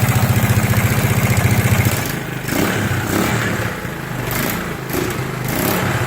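Rebuilt ATV engine running with its exhaust fitted loosely, a loud, fast, even pulsing. About two seconds in the engine note changes, turning quieter and uneven, rising and falling in pitch.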